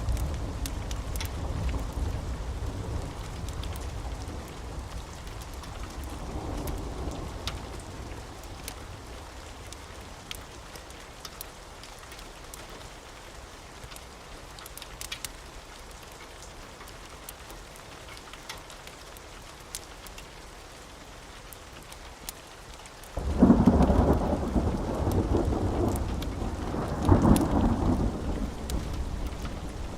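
Steady rain with scattered faint ticks. A low thunder rumble fades away over the first several seconds. Near the end a sudden loud thunderclap rolls in and swells again a few seconds later.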